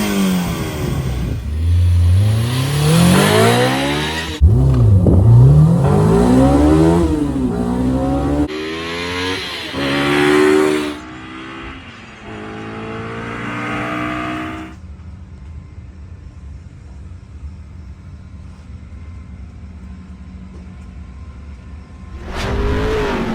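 Honda S2000's four-cylinder engine through a titanium twin-loop exhaust, revving up and down in a series of rising and falling runs with abrupt cuts between them. It then settles into a steady, quieter idle for several seconds before another rev starts near the end.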